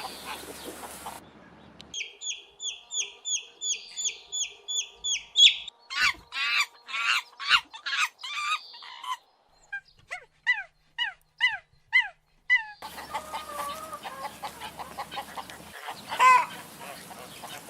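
Chickens calling across several short cuts: a quick run of high, falling peeps, then clucking, another string of short falling calls, and more clucking.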